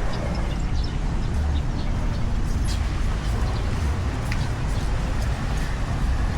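Street ambience dominated by a steady low rumble of road traffic, with a few faint high chirps or ticks over it.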